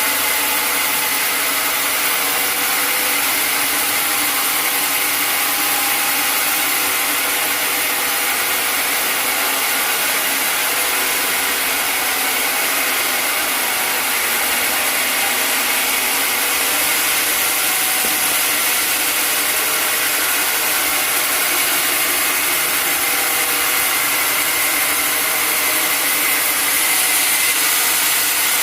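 Sawmill saw running through an acacia log, with the engine and blade making a loud, steady sound and a high hiss throughout.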